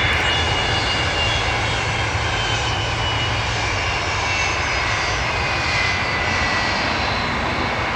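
Boeing 757 jet engines running: a steady roar with whining tones that slowly fall in pitch as the aircraft moves.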